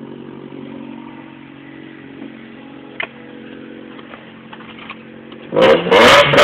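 1997 Honda Accord engine idling steadily with a loud exhaust, a single sharp click about three seconds in. Near the end the engine is revved hard and gets suddenly much louder, rising in pitch. It is being run to burn off oil that bad seals let onto the spark plugs.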